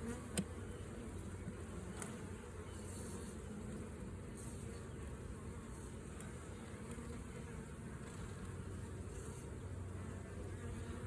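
Honeybee colony buzzing steadily around an open hive during a frame inspection, with one short click about half a second in.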